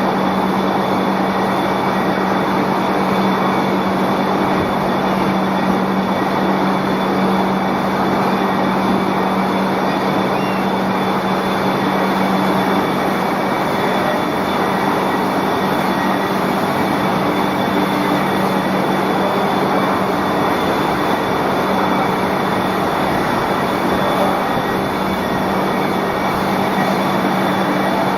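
Egg cooking and peeling production line machinery running: a steady, unchanging mechanical din with a constant low hum and faint steady high whines.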